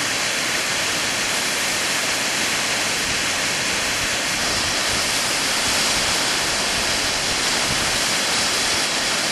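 Sudüşen waterfall: a steady, full rush of falling water.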